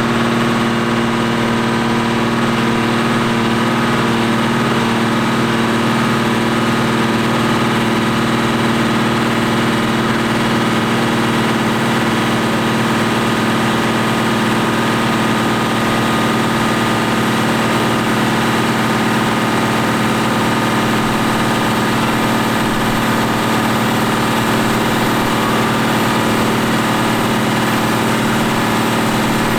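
New Holland TM140 tractor engine running at a steady speed while it drives a PTO dynamometer, its note holding constant without revving up or down.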